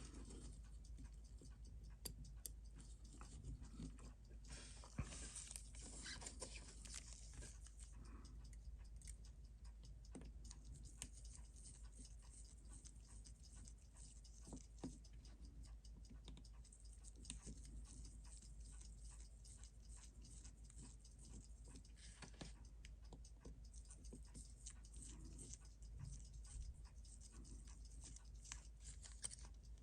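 Near silence with faint, scattered small clicks and brief scrapes of watchmaker's tools on a Seiko 6138 chronograph movement being taken apart, over a steady low hum.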